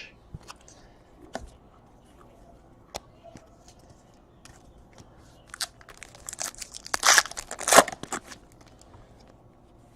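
A foil trading-card pack wrapper being torn open and crinkled, with scattered light clicks of cards being handled. The tearing is loudest in a cluster of bursts between about six and eight seconds in.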